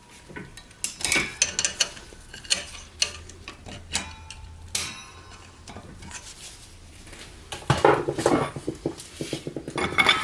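Metal parts and tools clinking and clattering with irregular sharp knocks, with a denser, louder burst of rattling about eight seconds in.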